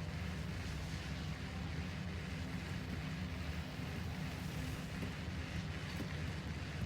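Steady low mechanical drone with a constant hum, under an even hiss, and a few faint ticks near the end.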